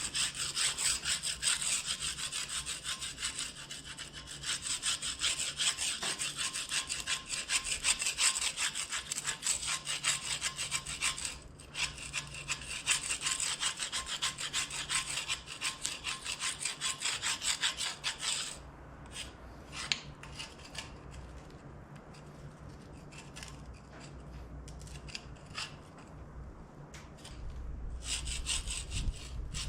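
Rapid scraping and scratching of a tool on a cast-iron tractor weight, cleaning packed dirt and old grease off it. The scratching is steady for most of the first two-thirds, then turns into scattered scrapes and taps, and picks up again near the end.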